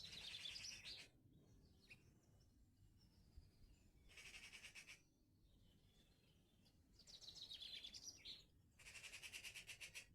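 Songbird singing faint, fast trilled phrases of rapidly repeated high notes, each about a second long: one at the start, one about four seconds in, and two close together near the end.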